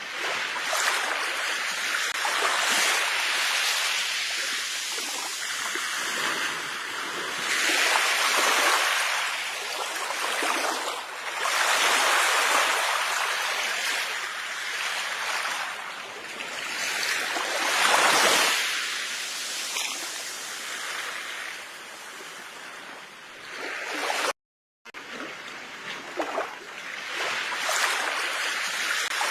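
Sea waves breaking and washing up the shore, swelling and easing every few seconds. The sound drops out briefly about three quarters of the way through.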